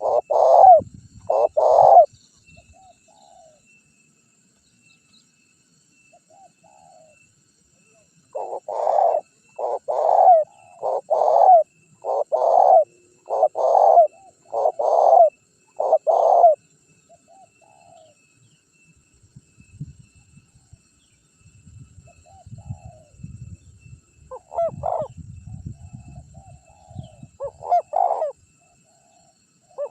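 Spotted dove (tekukur) cooing, a song used as a lure call to draw wild doves. A few coos come at the start, then a run of about eight coos from about 9 to 16 seconds in, and fainter coos near the end, with a faint low rumble under the later part.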